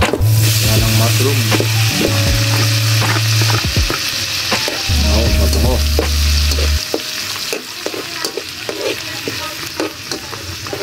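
Sliced mushrooms tipped into hot oil in a metal wok, bursting at once into a loud sizzle that eases somewhat after about seven seconds. A slotted metal spatula stirs and scrapes them around the pan throughout.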